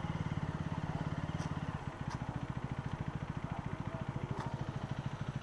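Motorcycle engine idling with a steady, fast, even pulse.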